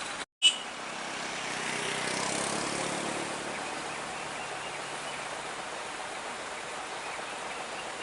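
A road vehicle passing, its engine and tyre noise swelling to a peak two to three seconds in and then settling into steady road noise. Near the start the sound cuts out for a moment and ends with a sharp click.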